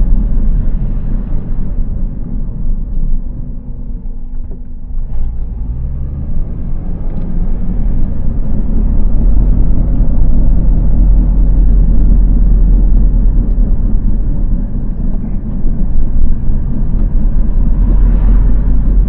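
2002 Honda CR-V being driven, with a loud, steady low rumble from a worn front passenger-side wheel bearing mixed with road noise. It eases off around four seconds in and builds again from about six seconds.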